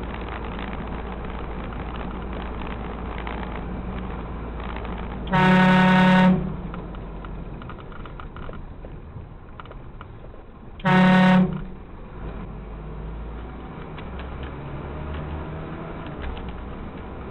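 Car horn honking twice, a blast of about a second and then a shorter one, over the steady low rumble of a vehicle driving.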